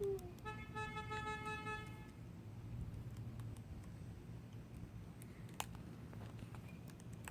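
A horn sounds one steady note for about a second and a half, starting about half a second in, over a low steady outdoor background. A single sharp click comes a little after five seconds.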